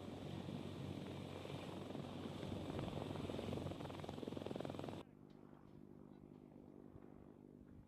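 Helicopter running close by: a dense, fast throb of rotor and turbine noise that cuts off suddenly about five seconds in, replaced by a quieter steady hum.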